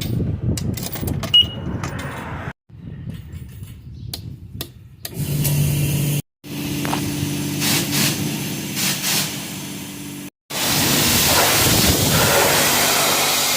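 A few short cut-together clips: a truck engine running steadily, then, from about ten seconds in, the loud steady hiss of a pressure-wash wand spraying.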